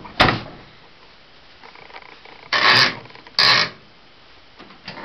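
Three short rasping rubs, one near the start and two more in the second half about a second apart, over a faint steady background.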